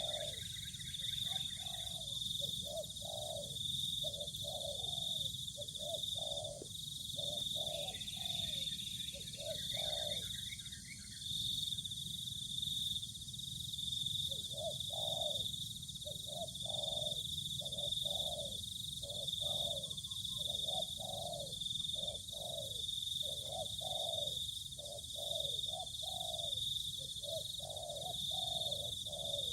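A dove giving a low coo, short notes repeated about once or twice a second with a break of a few seconds partway through, over a steady high-pitched buzz. Brief chirping trills come at the start and again about eight seconds in.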